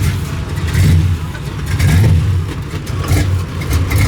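Modified car engine running loudly with a deep exhaust rumble that swells and falls repeatedly as it is revved.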